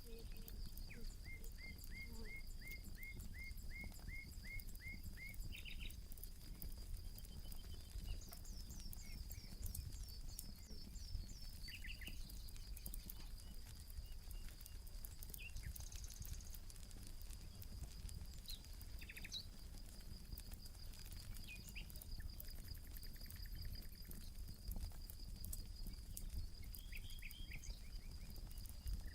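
Campfire crackling with scattered small pops while birds sing: a quick run of about a dozen repeated notes starting about a second in, then a series of high falling whistles around ten seconds in. A steady high pulsing tone runs underneath.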